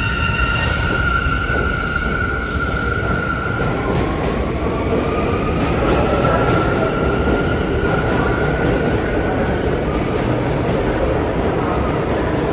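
Bombardier R179 subway train running loudly through the station, with a steady low rumble of wheels on rail. A high thin squealing tone runs through the first few seconds, then a second high tone rises slowly in pitch from about four seconds in.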